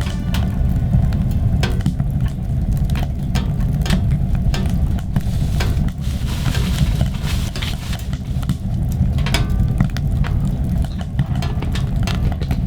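Steady low rumble with many scattered clicks and taps, and a brief hiss about halfway through.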